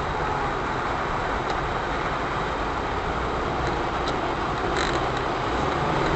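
Steady engine and road noise of a car driving, picked up inside the cabin by a dashcam, with a few faint ticks.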